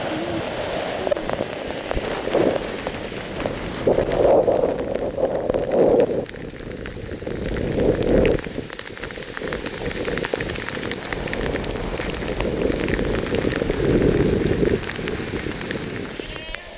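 Heavy rain falling steadily on a surface, a dense patter of drops that swells louder several times.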